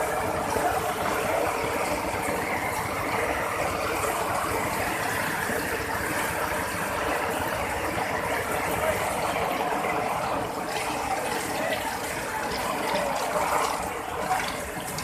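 Floodwater rushing past, a steady even wash of fast-flowing water that holds the same level throughout.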